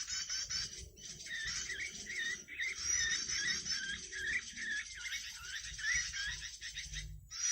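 Dense, rapid, high-pitched chirping and twittering of small songbirds, breaking off briefly about a second in and again near the end.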